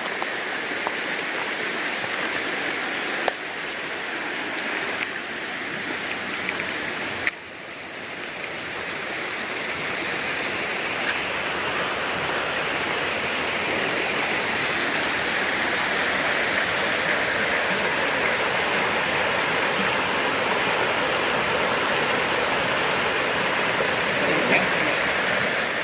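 Rushing water of a rainforest river, a steady roar of flowing water that grows louder about a third of the way in and then holds steady, with two brief sudden dips early on.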